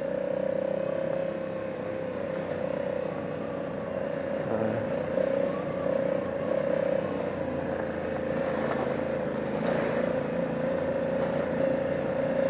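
2020 Honda Africa Twin's parallel-twin engine running at a steady, even pace on a gravel trail, with a steady whine throughout. A short rush of noise comes about nine to ten seconds in.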